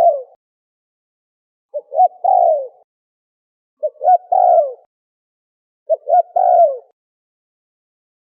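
Spotted dove (terkukur) cooing: three full phrases about two seconds apart, each two short coos followed by a longer falling coo, with the tail of a previous phrase at the very start.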